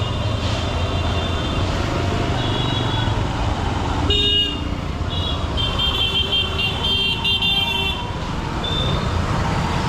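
Honda SP125's single-cylinder engine running steadily in heavy city traffic while vehicle horns honk around it: a short toot about two and a half seconds in, a louder one just after four seconds, a long stretch of honking from about five and a half to eight seconds, and another brief toot near the end.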